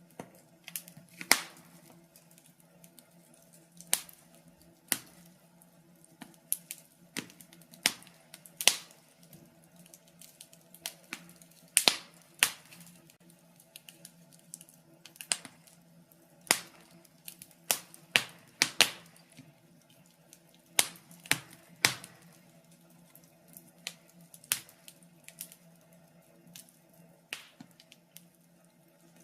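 Wood fire crackling, with irregular sharp pops and snaps, a few much louder than the rest, over a faint low hum.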